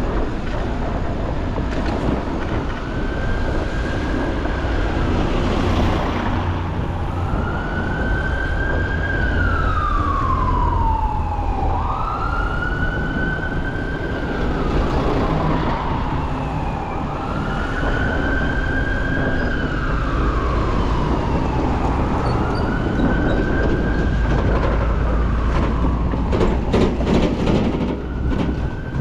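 Emergency vehicle siren wailing, slowly rising and falling about every four seconds, over a steady low rumble of city traffic, with a few sharp clicks near the end.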